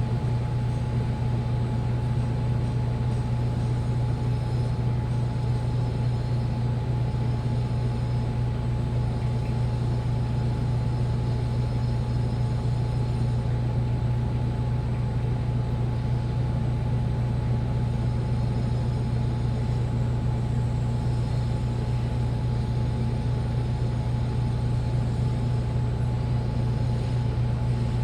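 Washing machine running steadily: a constant low motor hum with a thin, steady whine above it, no change in pace.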